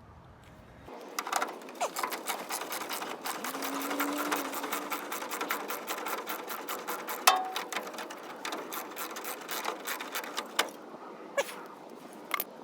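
Rapid, even mechanical clicking that starts about a second in and runs on, with a few louder single clicks.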